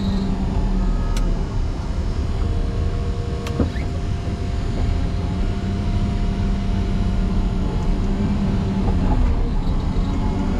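A motor grader's diesel engine running steadily under heavy load as the machine pushes into a deep, packed snow drift. There are two faint short clicks, about a second in and again a few seconds later.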